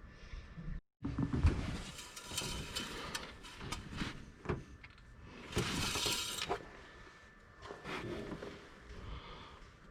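Knocks, clicks and scraping of things being handled, with two longer hissy, rushing stretches, about two and six seconds in.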